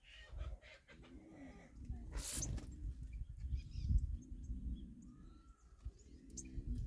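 Wild birds chirping and calling in short notes, with a brief rushing hiss about two seconds in and a low rumble underneath.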